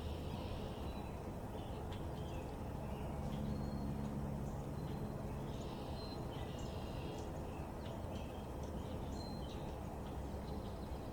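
Small backyard birds chirping and calling in short, scattered notes over a steady low background rumble. A low hum swells for a few seconds starting about a quarter of the way in.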